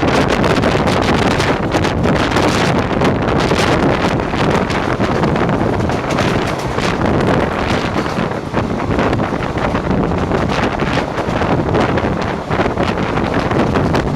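Double-stack container train rushing past at speed, its wheels clattering on the rails in a dense, continuous rumble, with heavy wind buffeting the microphone.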